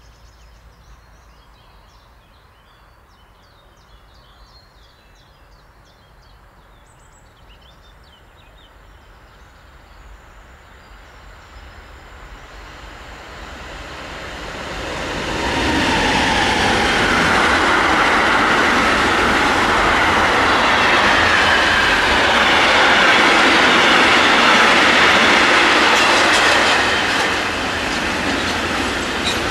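Electric train coming closer and growing steadily louder for several seconds, then passing close by loudly for about ten seconds before easing off slightly near the end.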